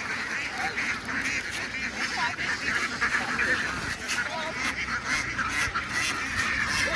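A large flock of ducks quacking and calling together in a steady, overlapping din.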